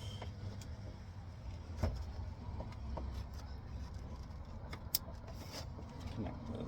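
Light clicks and knocks of hands working on a pickup's door panel and speaker parts, with sharp snaps about two seconds in and near five seconds, over a low steady rumble.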